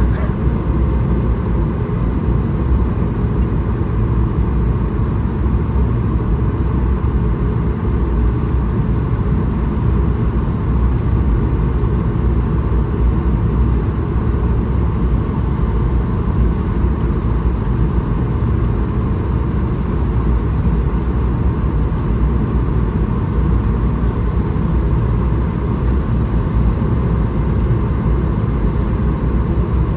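Steady in-flight cabin noise of an Airbus A220-300: a constant low rumble of airflow and its Pratt & Whitney PW1500G geared turbofan engines, with a faint steady whine above it.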